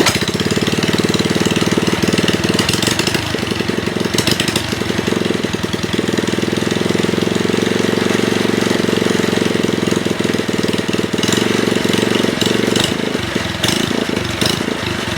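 Mini chopper minibike's small gas engine catching suddenly and running steadily at a fast idle.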